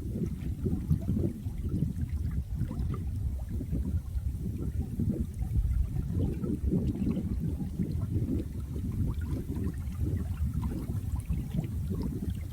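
Flowing water, a steady low rush with faint small splashes through it.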